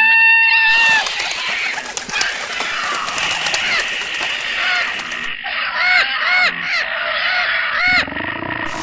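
Large birds calling: first one long call that rises then falls, then a dense noisy chorus of calls, then a quick run of short calls, each rising and falling in pitch.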